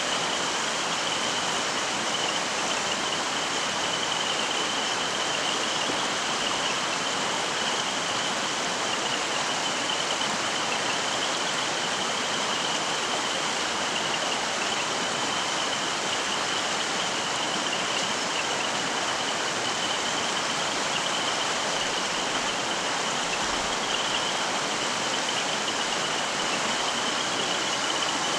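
Mountain stream flowing over rocks: a steady, even rush of water with a thin, high, steady tone riding over it.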